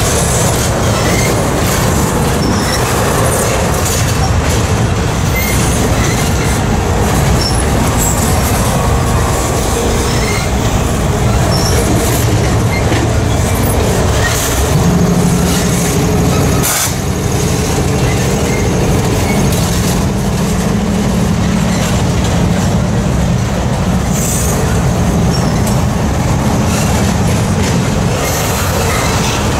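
Double-stack intermodal freight cars rolling over a steel girder railroad bridge: a loud, steady rumble and clatter of steel wheels on rail.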